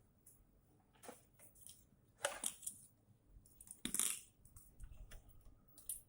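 Scattered handling noises: short rustles, scrapes and clicks, with louder scrapes about two and four seconds in.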